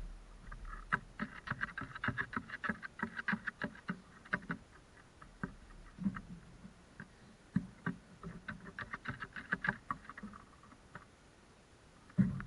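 Rapid, irregular tapping and clicking in two spells, typical of crows pecking at food scattered on a hard surface.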